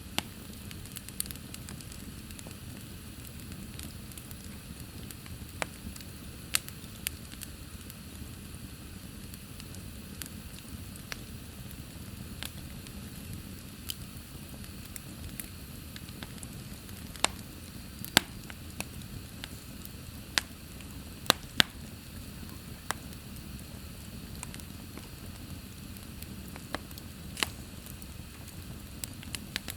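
Wood fire burning in a fireplace: a steady low rumble and hiss with irregular sharp crackles and pops, a few louder pops about two-thirds of the way through.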